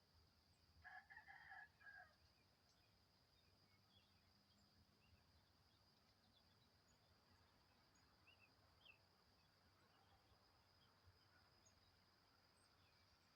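A rooster crows once, about a second in, over a faint steady high trill of insects and a few scattered small bird chirps.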